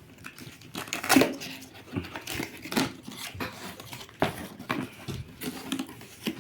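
Packaging being handled: plastic and cardboard crinkling and rustling, with scattered short clicks and a few louder crackles, as packing material is cut and pulled open.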